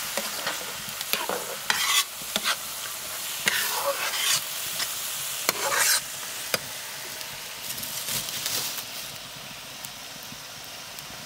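Tomato and ginger-garlic masala sizzling in mustard oil in a kadhai on a low flame, stirred and scraped against the pan at irregular intervals. The stirring strokes thin out in the last few seconds while the sizzle goes on. The masala is being fried down until the oil separates.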